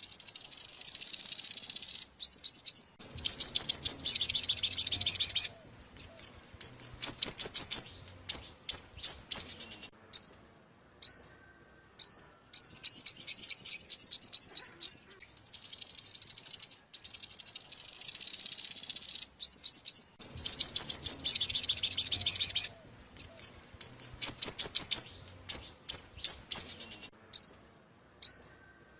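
Sunbird song played as a trapping lure: phrases of rapid, high, thin chirping notes run together into long trills, broken by shorter stuttering runs and brief pauses, the pattern coming round again about halfway through.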